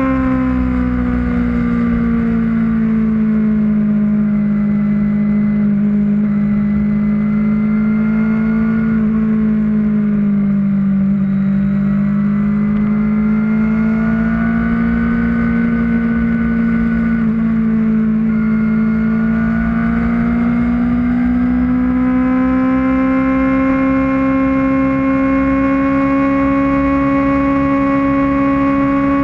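Kawasaki ZX-6R inline-four sport bike engine running steadily at cruising speed, its pitch easing down a little about a third of the way in and building back up toward the end, with wind rumble on the microphone.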